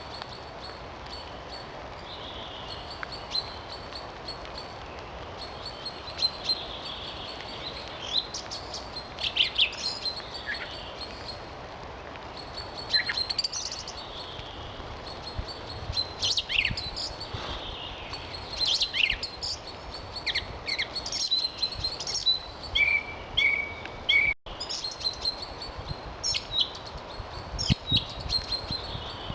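Several songbirds singing and calling: short high chirps and trills scattered throughout, over a steady background hiss.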